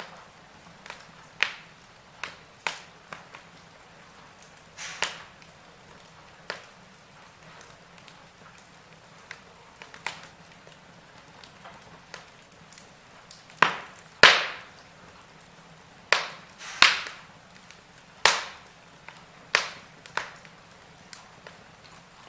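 Wood fire crackling in a fireplace: irregular sharp pops and snaps, some loud, a second or more apart.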